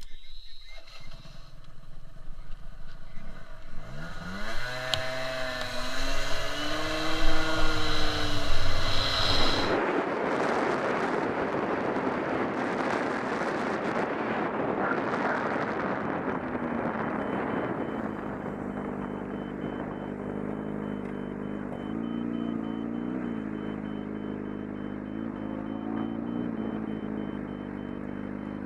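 Motorcycle engine revving up in rising sweeps as it pulls away, then a rush of wind noise for several seconds, then the engine running steadily with small rises and falls in pitch.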